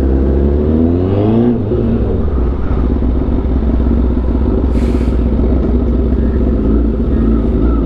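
Sport bike engine revving up over the first second and a half as it accelerates, then running steadily under a continuous rush of road and wind noise, with a brief hiss about five seconds in.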